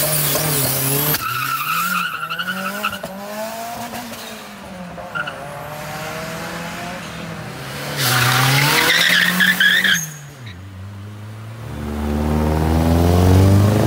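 Modified cars revving and pulling away along a road, the engine note rising and falling several times. About eight seconds in there is a louder, harsher two-second burst. Near the end one engine climbs steadily in pitch as it accelerates.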